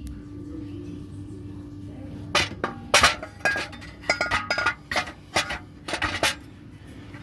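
Metal clinking and knocking as a new exhaust manifold is worked into place on its studs on the engine. There are several sharp clinks, some briefly ringing, starting about two seconds in, with a steady low hum before them.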